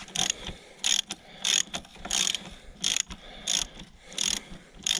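Ratchet wrench being worked back and forth on a 12 mm bolt, loosening it: a quick burst of ratchet clicks on each back-stroke, about three every two seconds.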